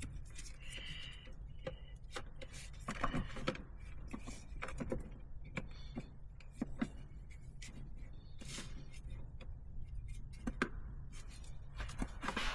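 Scattered light clicks, taps and knocks of aftermarket intake parts and hardware being handled and fitted, over a steady low hum.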